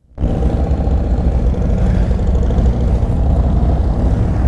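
Harley-Davidson V-twin motorcycle engine running with a steady, low-pitched pulsing sound. It starts right after a brief gap of silence.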